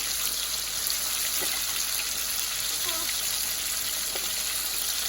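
Curry chicken frying in oil in a pot: a steady sizzle.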